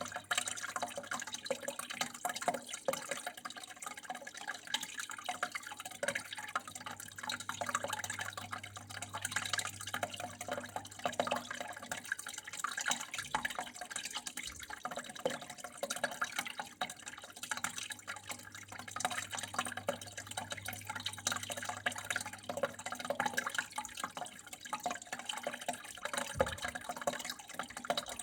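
Water flowing and trickling steadily with a constant patter of small drips and splashes, over a faint steady low hum.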